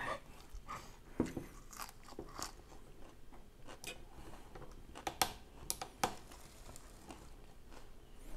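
Close-up chewing and crunching of food, with scattered short crisp clicks.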